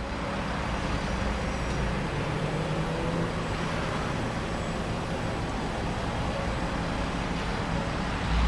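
2010 Mercedes-Benz Sprinter's 3-litre six-cylinder diesel engine idling: a steady low hum under an even rushing hiss.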